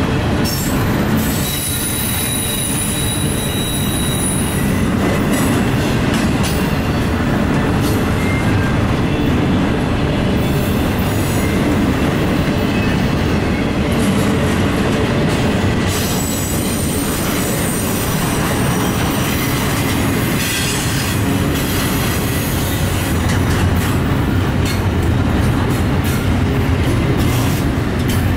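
Norfolk Southern double-stack container train's well cars rolling past at close range: a steady, loud rumble of steel wheels on rail. High thin wheel squeals come in a couple of seconds in and again around the middle.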